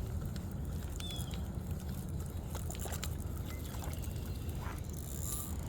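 Water lapping and trickling at the bank over a steady low rumble, with scattered faint clicks and a brief high chirp about a second in.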